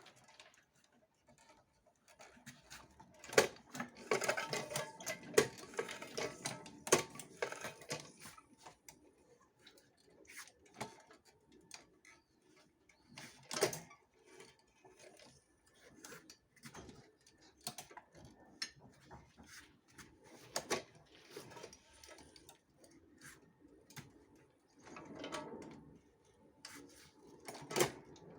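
Irregular clicks, knocks and clattering of small hard objects, with a busy stretch of clatter in the first third and single sharper knocks later.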